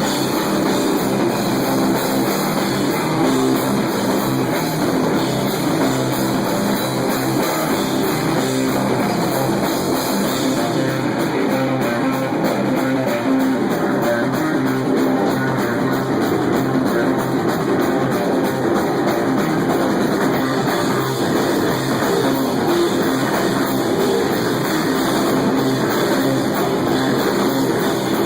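Heavy rock band playing live, loud distorted electric guitar over a drum kit, steady and dense throughout.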